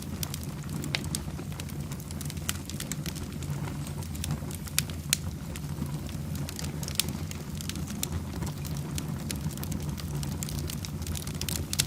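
Wood fire burning in a fireplace: a steady low rush of flame with irregular crackles and pops, two sharper pops close together about five seconds in.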